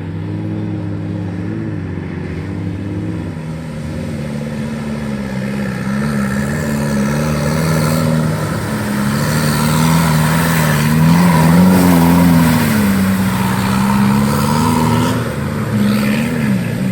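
Off-road 4x4's engine revving up and down repeatedly, getting louder from about six seconds in, with a rushing hiss joining from about eight seconds.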